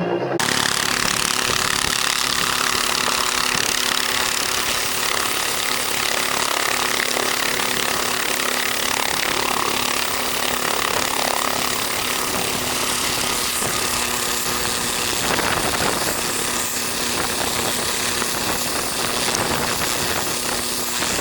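Airbus AS350B3 AStar (H125) helicopter coming in to land: its single turbine engine and rotors make a steady, loud rush with a constant low whine under it.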